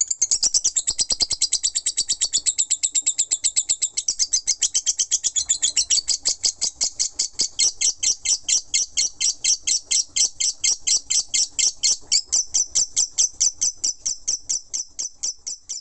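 Lovebird doing its 'ngekek': a long, unbroken chattering trill of rapid, evenly repeated high chirps. The chirps gradually slow and space out toward the end.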